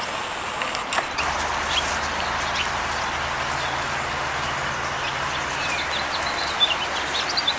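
Small songbirds chirping in short, high calls, scattered at first and coming thicker near the end, over a steady low hum that starts about a second in.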